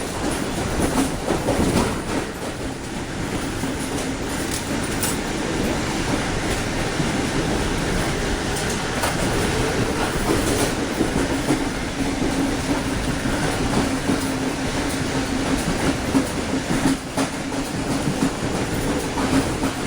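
Passenger train wheels rolling over track and across a rail diamond crossing, heard from aboard the train: a steady rumble with a few sharp clacks, and a steady low hum through the second half.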